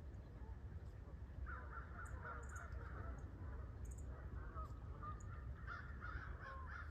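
Faint crows cawing, with a few short high chirps of small birds mixed in.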